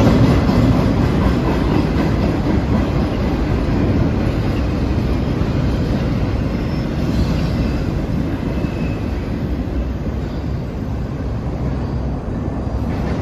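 Freight train cars rolling past on steel rails: a steady, loud noise heaviest in the low end that eases a little over the last few seconds.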